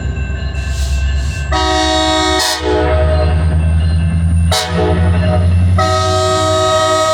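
Sounder commuter train's locomotive horn sounding in chord-like blasts, a strong one about a second and a half in and another near the end, over the diesel locomotive's low engine rumble that swells as the train pulls away.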